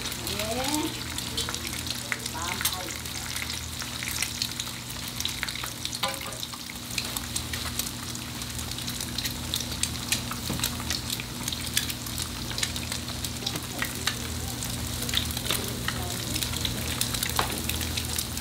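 Food frying and sizzling on a hot griddle, with frequent sharp clicks and scrapes of utensils against the metal, over a steady low hum.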